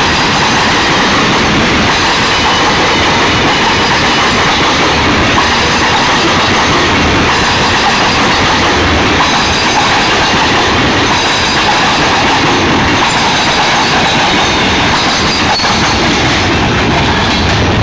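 Union Pacific freight cars rolling past with a steady, loud clatter of steel wheels on rail and a faint high squeal of wheels.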